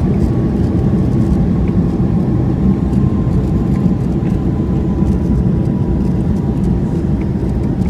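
Inside the cabin of a Boeing 757-200 rolling on the ground just after landing: a steady low rumble, with a faint engine whine that slowly falls in pitch.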